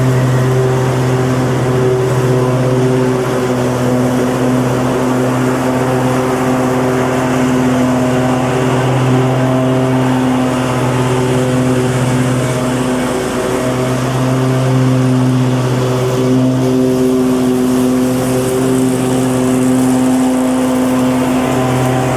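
Lawn mower engine running steadily, a constant engine hum with a wash of noise over it, its tone wavering slightly now and then.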